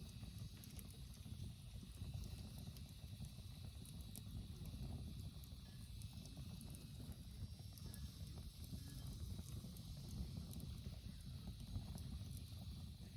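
Wood campfire burning, with scattered small crackles and pops over a low rumble of the flames.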